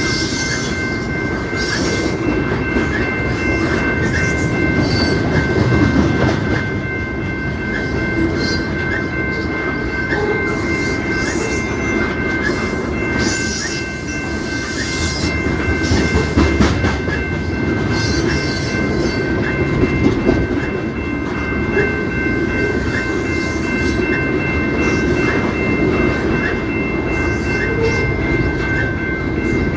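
CP Rail train passing close by: a steady rumble and clatter of railcars rolling over the track, with a high steady tone held underneath.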